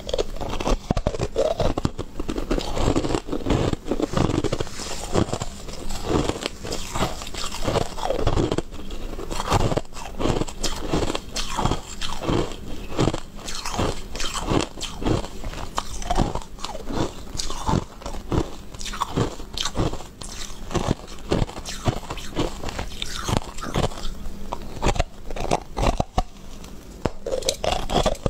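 A person biting and chewing small crunchy white balls of food, with a steady run of crisp crunches roughly one or two a second.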